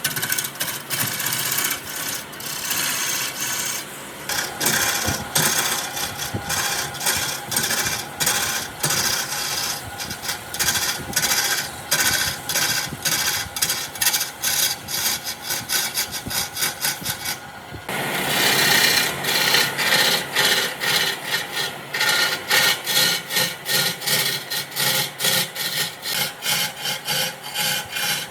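Hand tool working wood in rhythmic back-and-forth strokes, about two a second, with a short pause a little past halfway.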